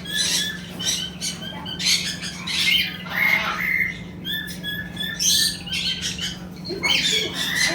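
Flock of caged exotic birds squawking and chirping, many short harsh calls overlapping without a break, over a steady low hum.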